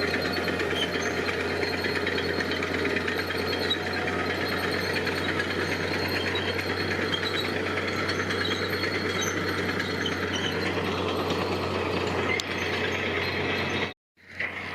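Heavy construction machinery's diesel engine running steadily with a clattering rattle. The sound cuts off abruptly near the end and resumes a little quieter.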